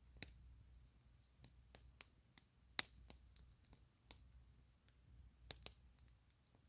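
Campfire crackling: irregular sharp pops and snaps of burning wood, with one louder pop about three seconds in, over a faint low rumble.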